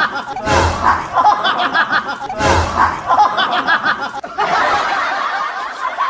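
A looped laughing sound effect, the same short burst of snickering laughter repeating about every two seconds, switching to a different laugh clip a little over four seconds in.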